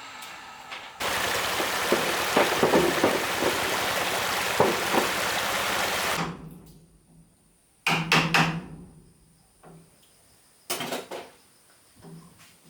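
A loud, rough hissing noise with crackles for about five seconds that stops abruptly, followed by two short bursts of hammer blows on wood, near the eight- and eleven-second marks.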